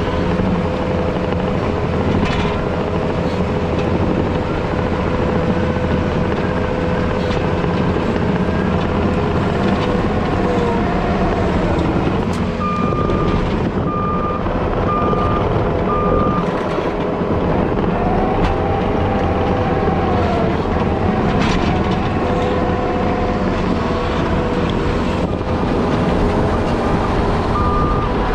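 Heavy diesel equipment running steadily under load, its engine tone shifting. A reversing alarm beeps about once a second, four times around the middle and again near the end.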